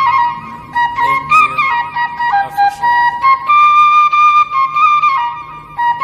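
Music: a single flute playing a melody, holding notes and stepping quickly between them.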